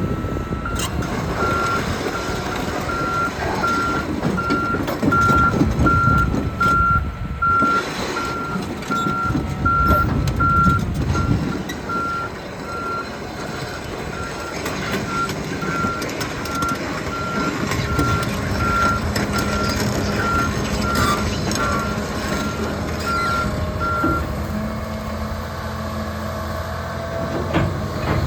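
John Deere 350P excavator's travel alarm beeping about once a second over its running diesel engine, the beeping stopping a few seconds before the end.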